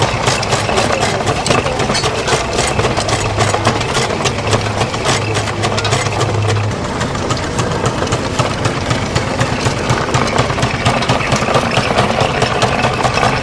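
Steam engine running with a quick, regular mechanical beat. A steady low hum under it stops a little before halfway.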